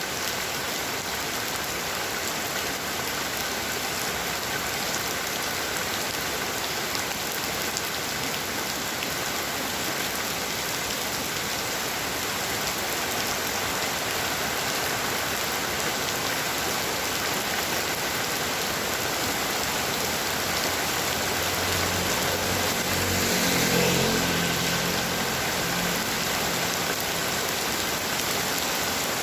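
Heavy rain falling in a steady, dense hiss. Past the two-thirds mark a low rumble swells, peaks and fades away.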